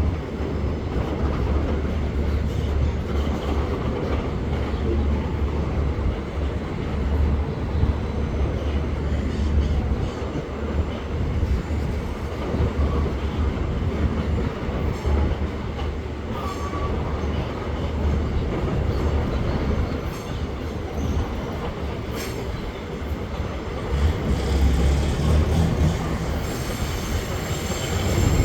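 Loaded bauxite ore freight train rolling past: a steady rumble of heavy wagon wheels on the rails, with scattered clicks over rail joints and a brief wheel squeal about halfway through.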